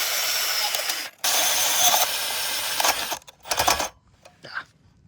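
Power tool running steadily with a hissing, grinding-type noise, most likely cutting off the excess mounting bolt. It stops for a moment about a second in, runs again until near three seconds, then gives two short bursts.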